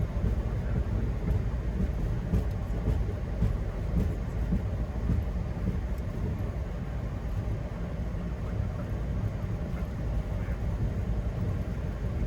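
Boeing 737-800 flight deck noise while rolling on the ground after landing: a steady low rumble from the wheels and idling engines, with a few light bumps from the landing gear a few seconds in.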